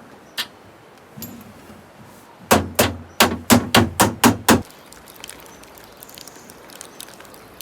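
A run of about eight hard, rapid strikes, roughly four a second, after a single knock just before it.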